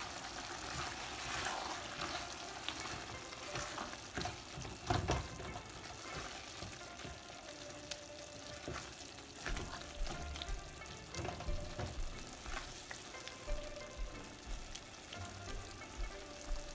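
Shrimp and chepa shutki (fermented dried fish) sizzling in a thick onion-garlic masala in a metal pan while a silicone spatula stirs them, with irregular scrapes and knocks of the spatula against the pan, more frequent in the second half.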